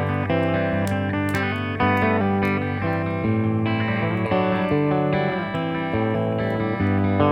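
Instrumental guitar passage in a slow, repetitive desert-blues style: plucked notes over a sustained low bass note, with no singing.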